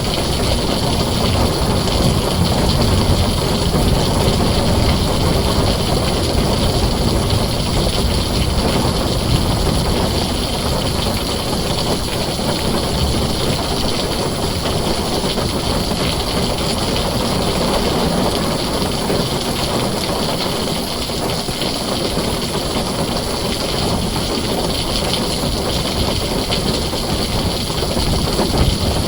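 Heavy rain on a tin roof: a dense, steady hiss with a low rumble underneath that briefly eases about two-thirds of the way through.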